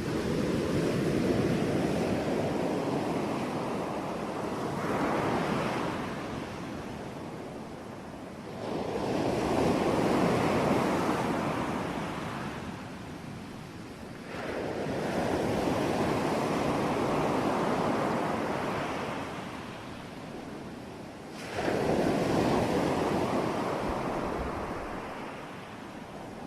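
Ocean waves breaking on a shore, each one a rushing surge that builds and fades over several seconds, one coming every five or six seconds.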